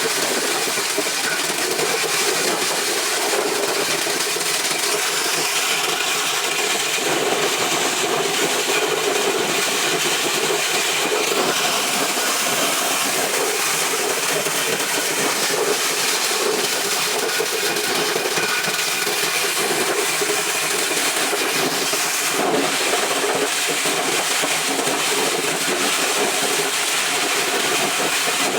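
Corn-shelling machine running steadily, a dense, even mechanical rushing noise without pauses.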